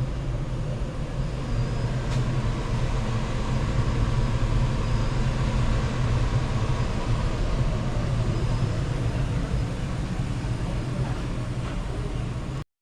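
A machine running steadily: a low hum under an even rushing noise, cutting off abruptly near the end.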